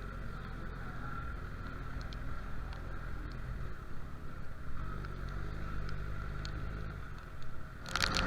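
Motorcycle engine idling at a low level, a steady low hum. Near the end a sudden loud rush of noise breaks in.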